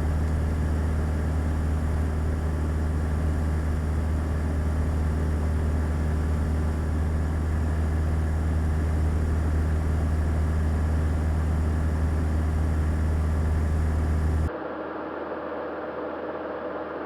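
Single-engine light aircraft (Beechcraft Sundowner), its four-cylinder piston engine and propeller droning steadily as heard inside the cabin. Near the end the drone abruptly becomes quieter and duller.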